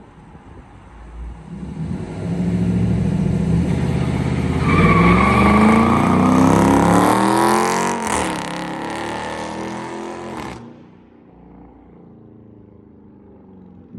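Dodge Charger R/T's 5.7-litre Hemi V8 accelerating hard on a 0-60 run: engine pitch climbs steeply, dips briefly at an upshift about eight seconds in, climbs again, then cuts off suddenly, leaving a quieter low rumble.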